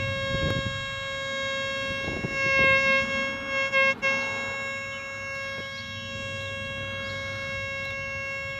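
Detectron 7T metal detector giving a steady, unwavering electronic tone that breaks off for an instant about four seconds in. The tone is its signal that metal lies below, which could be water lines, power cables or a penny.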